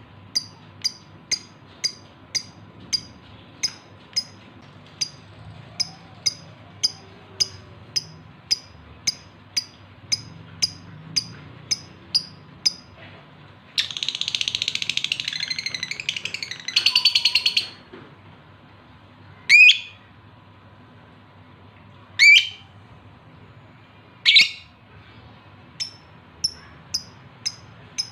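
Male lovebird in breeding condition calling for a female: a regular run of short high chirps, about two to three a second, then a few seconds of rapid chattering, then three loud, sharp squawks a couple of seconds apart before the chirping starts again.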